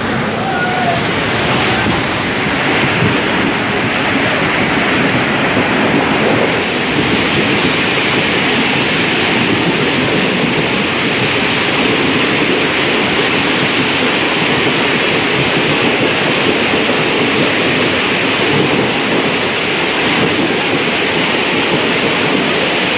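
Loud, steady rush and splash of water as a train runs through floodwater covering the tracks.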